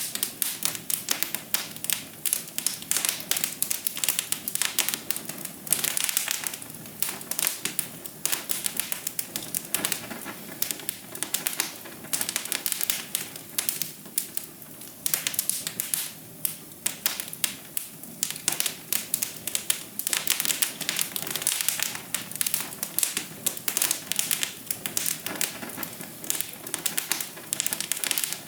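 Wood fire in a fireplace crackling, with many small pops coming quickly and irregularly over a soft hiss.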